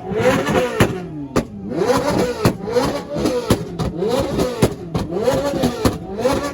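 A car engine revved over and over, about once a second, each rev rising and falling in pitch, with sharp cracks between the revs.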